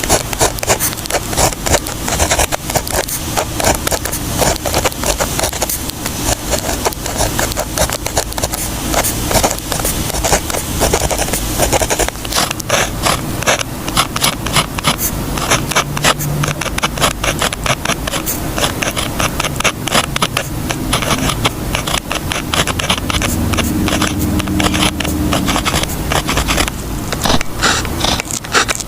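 Writing by hand on paper: a continuous run of quick scratching strokes of a pen or pencil tip across the page.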